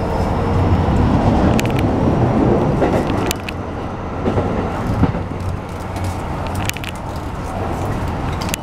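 Running noise inside a Keikyu New 1000 series train car with a Toyo hybrid SiC VVVF inverter: a steady rumble of wheels on rail with scattered sharp clicks. The noise drops a little about three seconds in.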